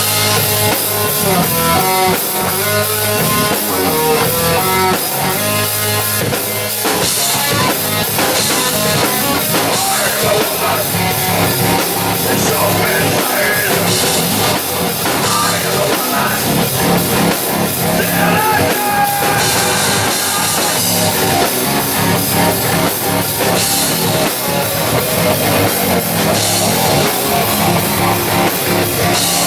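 A live rock band playing loud: electric guitar over a drum kit, with bass.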